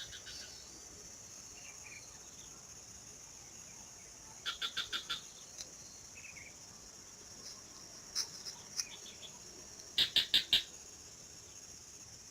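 An unidentified bird calling in short series of rapid repeated notes, about six notes a little before halfway and four louder ones near the end, with single chirps between. A steady high insect drone, as of crickets or cicadas, runs underneath.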